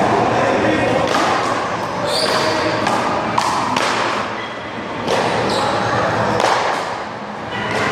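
One-wall handball rally: a series of sharp smacks about a second apart as the small rubber ball is struck and rebounds off the wall, over background chatter from onlookers.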